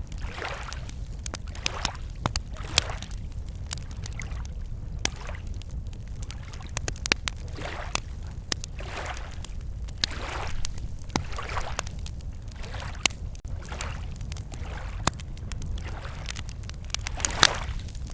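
Wood campfire crackling with scattered sharp pops, over small lake waves lapping against the shore in soft swells every second or two, with a steady low rumble underneath.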